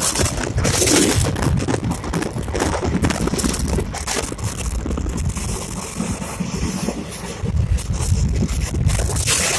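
Passenger train running: a steady, loud rumble and rushing noise with irregular rattles.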